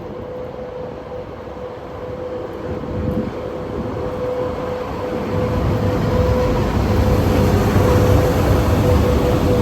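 VL80S AC electric locomotive approaching with a container train: a steady hum under a low rumble that grows louder as the train draws near.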